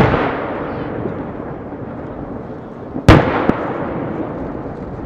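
Aerial firework shells bursting: a loud boom right at the start and another about three seconds in, with a lighter crack just after the second. Each boom is followed by a long, fading rumble.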